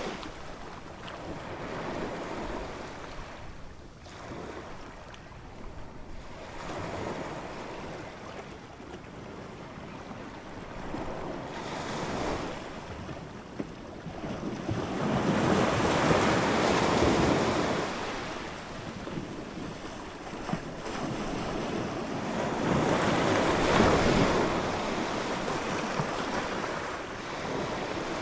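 Ocean waves breaking and washing in, rising and falling in slow surges, with two bigger waves about halfway through and near the end.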